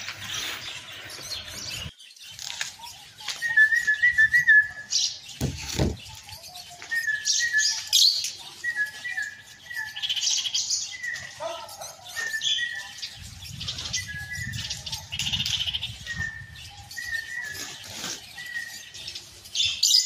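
A bird chirping over and over in short, high calls, with shriller bursts scattered among them. A low thump sounds a little before six seconds in.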